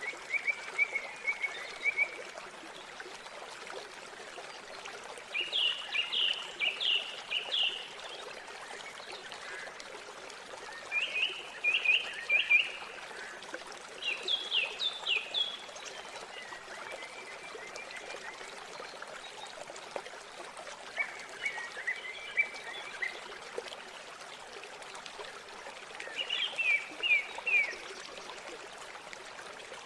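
River water flowing steadily, with a small songbird singing short bursts of rapid, high, downward-sweeping notes every few seconds, some bouts quieter and lower than others.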